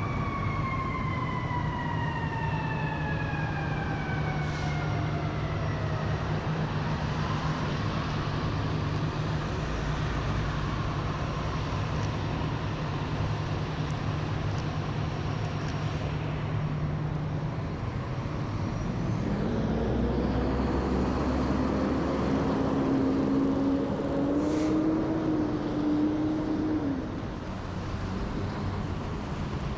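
City street traffic in the snow. A siren falls in pitch over the first several seconds, engines run steadily under it, and from about two-thirds of the way in a vehicle engine rises slowly in pitch before cutting off near the end.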